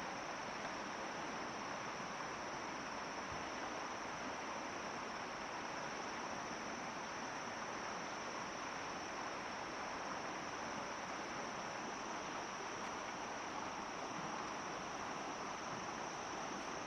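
Steady outdoor ambience: insects buzzing at one constant high pitch over an even rushing hiss.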